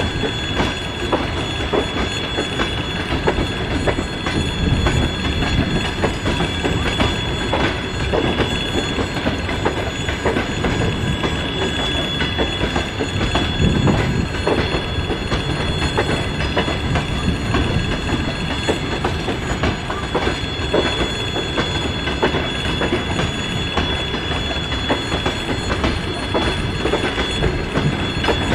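Passenger train coaches rolling past on the rails, their wheels clicking irregularly over the rail joints under a steady rumble, with a steady high squeal over it.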